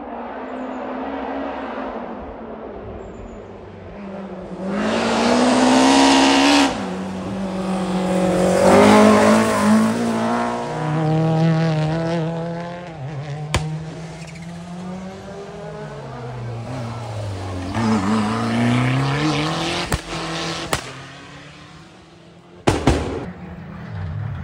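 Rally car engines revving hard in several runs that climb and fall in pitch, with tyres squealing. There are a few sharp cracks, and a short loud burst near the end.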